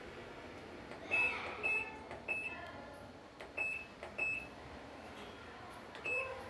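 Short electronic beeps, six at irregular intervals, from a top-loading washing machine's control panel as its buttons are pressed.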